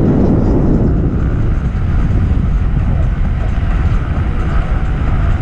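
Electric skateboard rolling over a rough trail surface: a steady, loud rumble of the wheels and deck.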